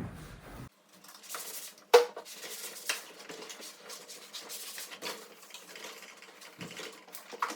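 Scattered light clicks and knocks with faint rubbing as the outside of a refrigerator is sprayed and wiped clean, with a sharper knock about two seconds in.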